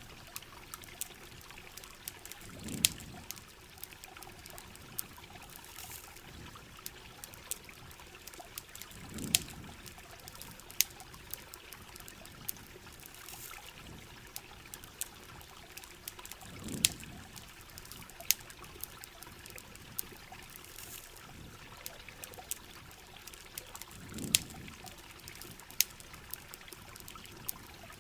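Campfire crackling in steady rain: a continuous rain hiss with sharp pops and crackles of burning wood scattered throughout. A soft low thump comes four times, about every seven and a half seconds.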